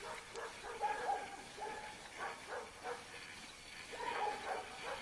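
Dog whining: a series of short, high, wavering whines.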